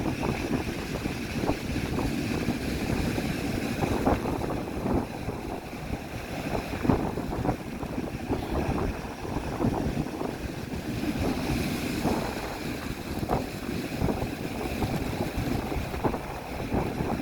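Strong wind buffeting the microphone in uneven gusts, over the rush of sea waves breaking and splashing.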